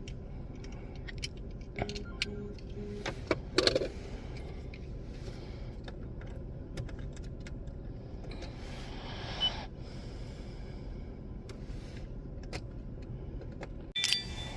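Inside a car's cabin with the engine idling steadily, and scattered small clicks, rattles and a couple of louder knocks from things being handled. A brief hiss comes about nine seconds in.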